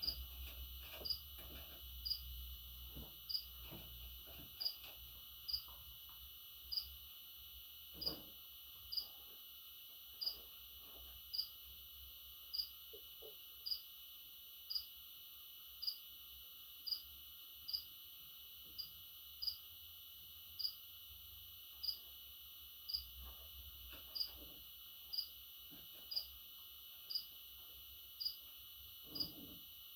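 A chirping insect giving one short high chirp about three times every two seconds, very regularly, over a steady faint high hiss.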